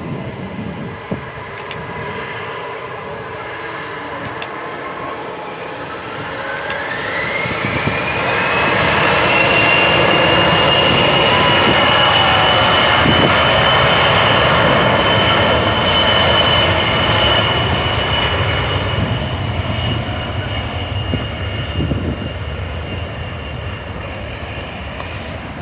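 Boeing 737-800's CFM56 turbofan jet engines spooling up: the engine whine rises in pitch about six seconds in and settles into a loud, steady high tone, then slowly fades over the last several seconds.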